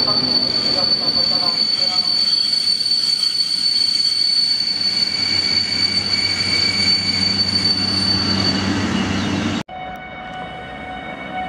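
PKP Intercity EU160 electric locomotive and its coaches rolling slowly past close by, with wheel and running noise under a steady high whine. About two-thirds of the way through the sound cuts off abruptly to a quieter, steadier hum of a train approaching from further away.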